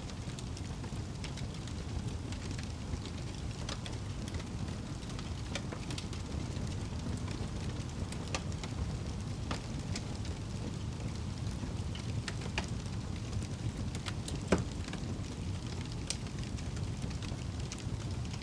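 Wood fire burning in a fireplace: a steady low rumble of flames with scattered crackles and pops, one louder pop about three-quarters of the way through.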